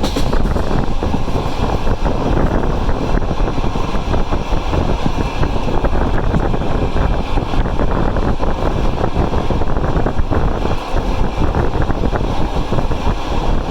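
Loaded passenger train running, heard from on board: a steady rumble of the carriages on the track, with wind noise on the microphone.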